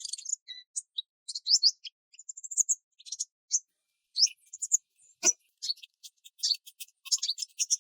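Small birds chirping in short, high notes. A single sharp click comes a little past halfway, and from about six seconds in a rapid, high-pitched insect chirring takes over.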